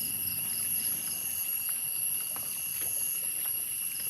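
Insects calling in forest: a steady high-pitched drone with a cricket-like chirp repeating about four times a second, which stops after about a second and returns near the end.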